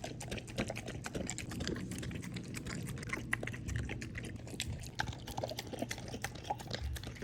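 Pit bull eating a bowl of rehydrated kibble mixed with wet food: a steady run of quick, irregular crunching and clicking chews.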